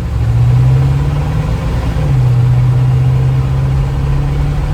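1972 Chevrolet C10 pickup's 350 V8 accelerating under part throttle, its pitch climbing. About two seconds in, the automatic transmission upshifts, and the engine note drops and then climbs again.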